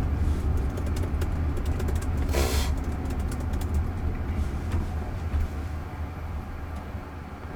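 Road noise heard inside a moving car's cabin: a steady low rumble, with scattered light clicks and a brief hiss about two and a half seconds in.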